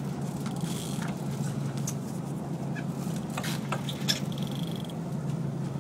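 Boat engine running with a steady low drone, with a few sharp clicks and knocks and a brief rattle about three and a half seconds in.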